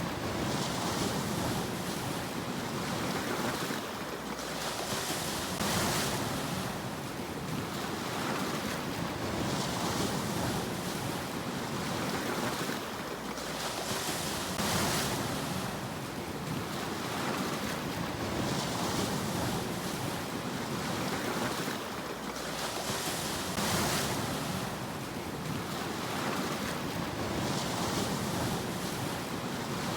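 Sea waves surging and washing back in a steady cycle, a swell of hiss about every four to five seconds.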